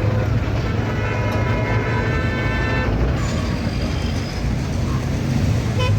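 City street traffic: a steady low rumble of engines, with a vehicle horn held for about two seconds from about a second in.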